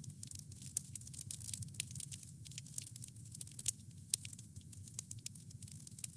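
Wood campfire crackling: an irregular run of sharp pops and snaps, a few louder than the rest, over a steady low rumble.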